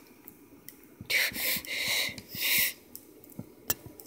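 A person making three short, breathy, whisper-like noises one after another, followed by a couple of faint clicks.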